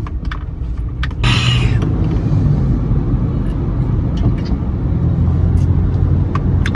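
Steady low rumble of a car on the move, getting a little louder about a second in, with a few faint clicks.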